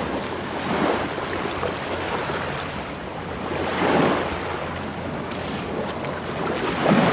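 Sea waves breaking and washing onto the shore, swelling three times about three seconds apart, over a steady low rumble of wind on the microphone.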